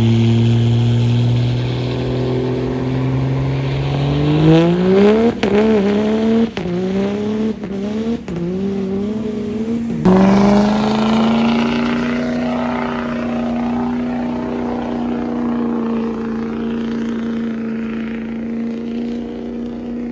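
Diesel truck engine revving hard: it runs steady, climbs about four seconds in, surges up and down several times in quick succession, drops sharply about ten seconds in, then holds a high, steady speed that eases off slowly.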